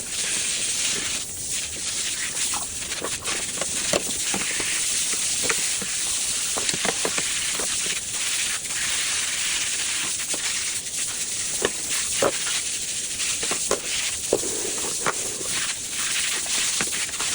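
Steady hiss of water running over a washing machine filter as it is cleaned, with scattered small clicks and knocks of the filter being handled.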